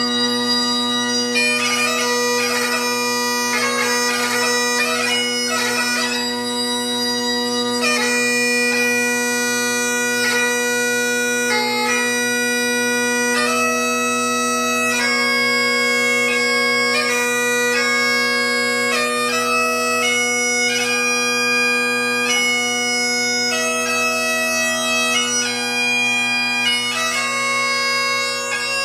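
Great Highland bagpipe played solo in a light-music (ceol beag) tune: the drones hold a steady chord while the chanter plays the melody, with rapid gracenote flurries over the first several seconds and then longer held notes.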